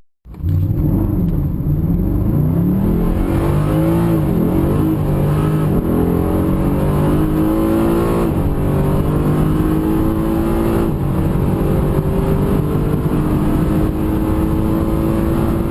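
Mercedes-AMG M159 6.2-litre naturally aspirated V8 running and revving. Its note swoops up and down in the first few seconds, drops about eight seconds in, then climbs slowly and steadily.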